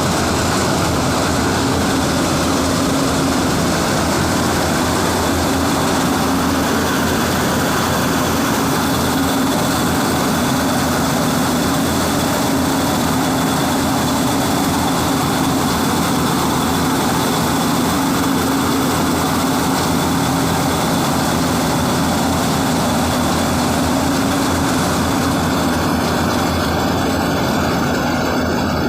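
Preet 987 combine harvester running steadily while cutting maize: a constant heavy engine and machinery drone with a steady low hum.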